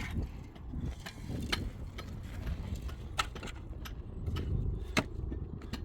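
Irregular sharp knocks and clicks from work on a building site, a few seconds apart, over a low steady rumble.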